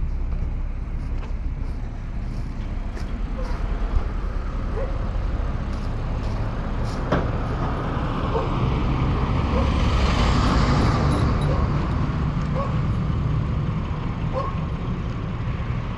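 BMW X3 M40i's turbocharged B58 inline-six and road noise while driving, a steady low rumble that swells to its loudest about two-thirds of the way through and then eases off. A few short sharp clicks stand out, the clearest about four seconds in.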